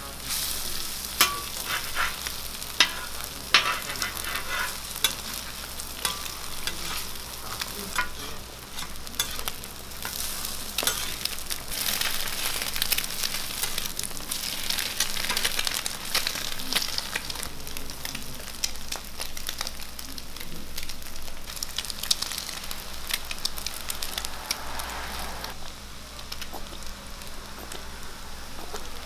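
Fried eggs and handmade burger patties sizzling on a steel flat-top griddle, with metal utensils clicking and scraping against the plate, sharpest in the first few seconds. The sizzle grows louder about halfway through as steam rises off the eggs.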